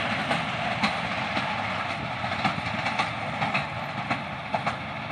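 Passenger express train speeding away, its wheels clicking and knocking irregularly on the track over a rushing noise that slowly fades.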